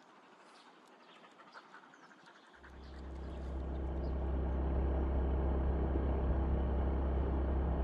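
Faint bird chirps over a quiet rural background, then about two and a half seconds in a motor vehicle's engine starts up. It settles into a steady low running sound that grows louder over the next second or two and then holds.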